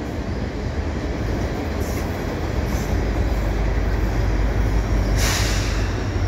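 Heavy freight train cars rolling past with a continuous low rumble of steel wheels on rail. The deep drone of the approaching mid-train GE ES44AC diesel locomotive (the distributed power unit) grows stronger in the second half. A brief hissing rush comes about five seconds in.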